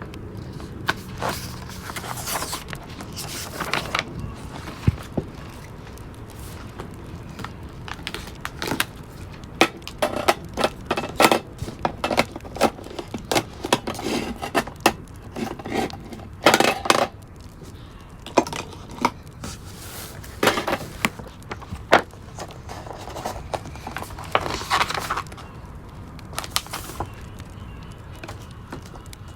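Fireplace crackling, with irregular sharp snaps and clinks over a steady low background hiss; a few clinks ring briefly.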